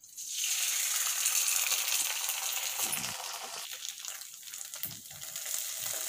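Washed, damp aval (flattened rice) dropped into hot ghee in a cast-iron kadai, sizzling as it lands. The sizzle starts suddenly and runs steadily, easing a little in the middle.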